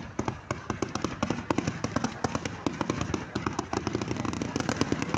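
Fireworks crackling: a dense, fast run of sharp pops and cracks, many each second.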